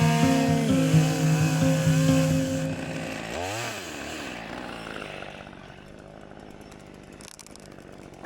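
Chainsaw running hard, its pitch shifting in steps. About three and a half seconds in, a quick swing in revs follows, and it then carries on much quieter at a steady low speed.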